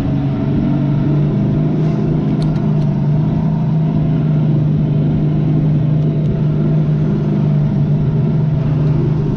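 Supercharged car engine running at a steady, unchanging speed, a constant low drone with no revving.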